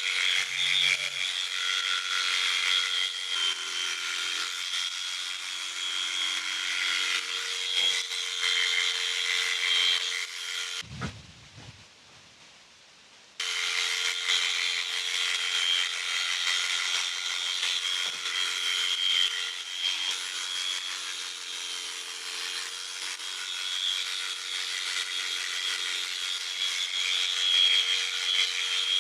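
Electric sheep-shearing clippers running with a steady buzz as they cut through fleece. The buzz cuts out about eleven seconds in, with a low thump, and starts again a couple of seconds later.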